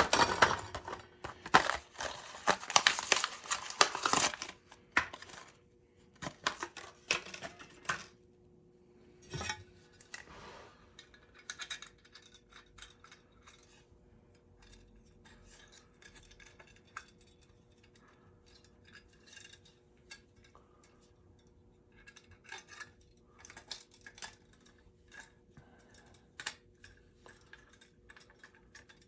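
Loud crinkling and tearing, as of a replacement thermocouple's packaging being opened, for about the first four seconds. After that come scattered small metallic clicks and taps of the part being handled and fitted, over a faint steady hum.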